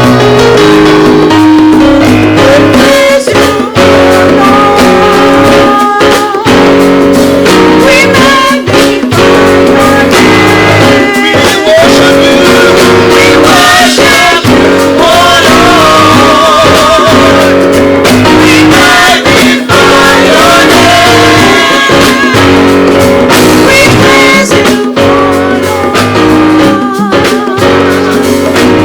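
Live gospel praise music: a band with guitar and drums playing while voices sing.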